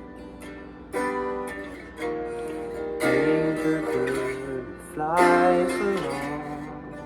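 Guitar music: chords struck about once a second and left ringing, with a few wavering, bent notes in the middle.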